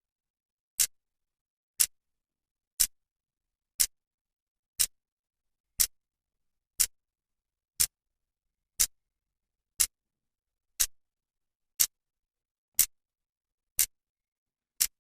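Clock second hand ticking once a second, a sharp, even click each time with silence between, fifteen ticks in all.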